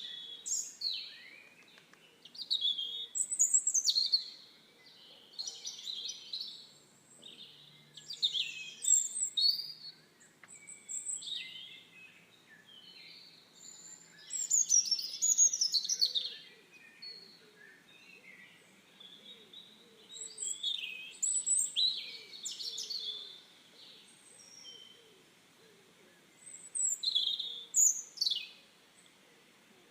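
A songbird singing: short phrases of quick, varied chirps and whistled notes that sweep up and down, repeated every few seconds with pauses between.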